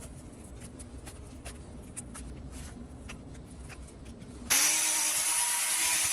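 A power tool grinding into a cow's hoof sole, venting out the hole left by an embedded rock. Low rumble and light clicks at first, then about four and a half seconds in the tool bites into the hoof with a sudden loud, steady grinding hiss.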